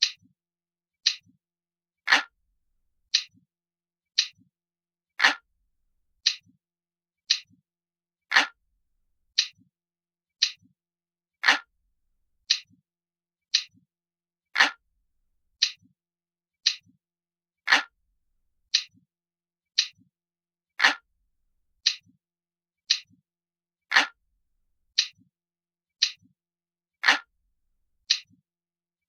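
Analog clock ticking steadily, about once a second, with every third tick louder and fuller.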